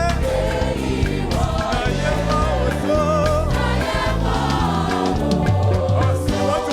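Gospel choir singing with a band, bass and drums keeping a steady beat.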